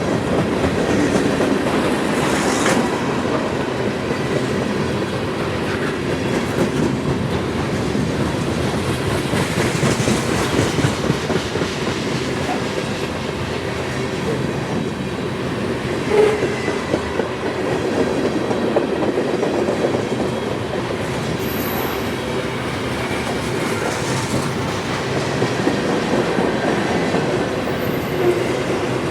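Freight train cars rolling past on jointed track, a steady rumble with rhythmic clickety-clack of the wheels. A couple of brief high-pitched squeaks come in the second half.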